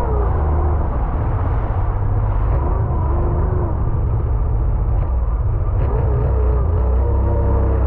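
Sea-Doo jet ski running on the water, its engine pitch rising and falling, over a heavy low rumble.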